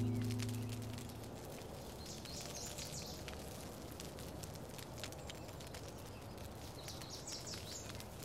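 The last held note of the music dies away within the first second, leaving faint outdoor ambience with two short runs of high bird chirping, about two seconds in and again near the end.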